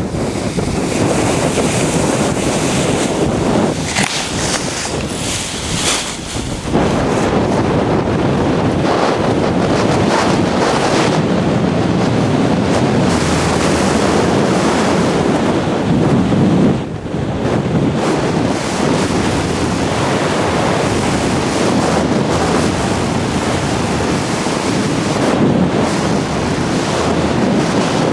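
Strong, gusty wind buffeting the microphone: a loud, steady roar that swells and eases, with brief lulls about 4, 6 and 17 seconds in.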